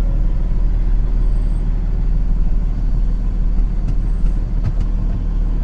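Semi truck's diesel engine running at low speed, a steady low rumble, with a few faint clicks about four seconds in.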